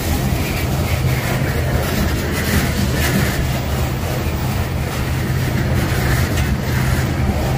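Freight train rolling past with a steady, continuous rumble.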